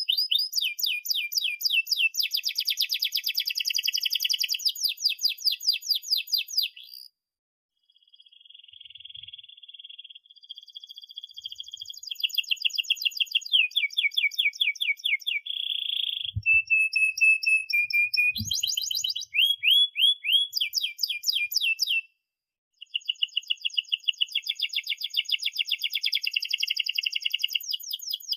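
Domestic canary in full song: long, fast runs of repeated chirping notes and rolling trills. The song breaks off briefly twice, about 7 and 22 seconds in.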